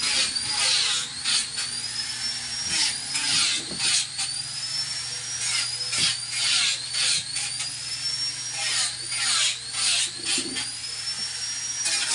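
Turbo-sound whistle accessory whistling over and over, a high tone that rises and falls roughly once a second, each time with a burst of hiss, over a steady low engine hum.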